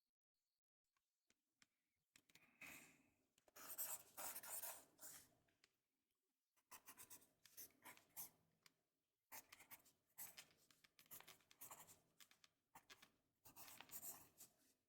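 Writing on paper, close up: scratchy scribbling strokes in short runs with brief pauses, starting about two seconds in.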